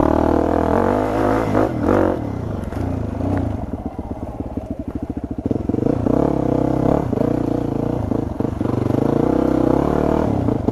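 Dirt bike engine running and revving; it drops to slow, separate firing pulses around the middle, then picks up again with rising and falling revs.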